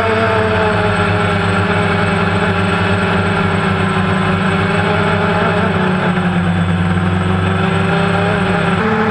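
Quadcopter drone's electric motors and propellers whirring steadily. Their hum drifts slightly in pitch and steps to a new pitch near the end as the motors adjust speed.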